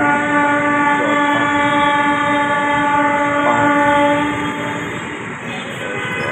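Indian Railways train's horn sounding a long blast of about four seconds that fades away, then a short blast near the end, over the noise of the moving train.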